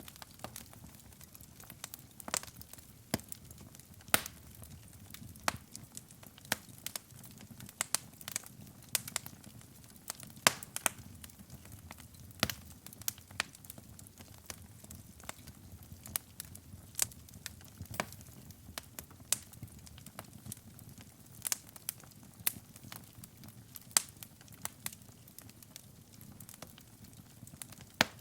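Wood fire burning in a fireplace: irregular sharp crackles and pops, several a second, some much louder than others, over a soft low rumble of the flames.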